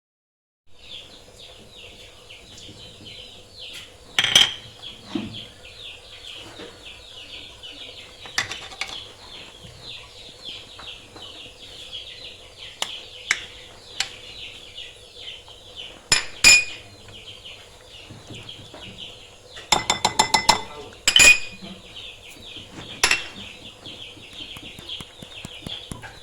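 Kitchen utensils clinking and knocking against dishes now and then, with a quick run of clinks about twenty seconds in, over constant high chirping.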